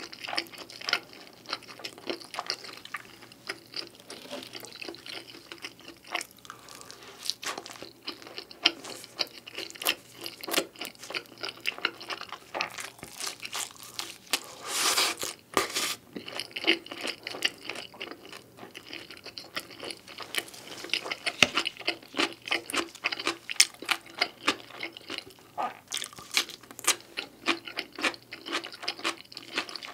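Close-miked chewing and biting of pizza: irregular crunching and moist mouth sounds. About halfway through there is a longer, louder noisy sound lasting a second or so.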